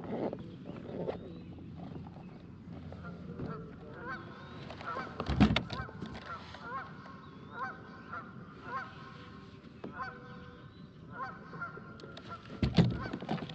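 Geese honking repeatedly in a run of short calls, with two dull thumps against the kayak, one about five seconds in and one near the end.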